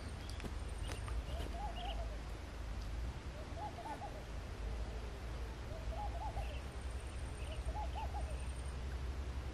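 A bird calling a short hooting phrase of three or four notes four times, about every two seconds, with faint higher chirps from other birds and a low steady rumble underneath.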